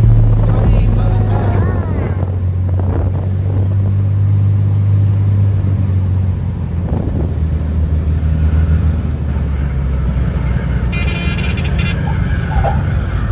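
Light aircraft's piston engine running steadily, a loud low drone, with a short burst of hiss about eleven seconds in.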